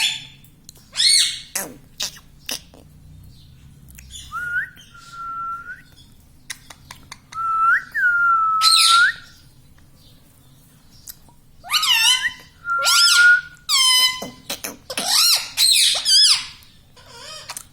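Pet Indian ringneck parakeet calling: held whistled notes mixed with short, sharp pitch-bending squawks, coming in bursts with pauses between.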